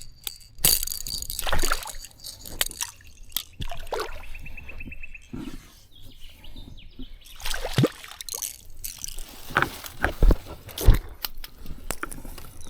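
Water splashing and sloshing with irregular knocks and clatters, as a hooked Murray cod is fought and landed.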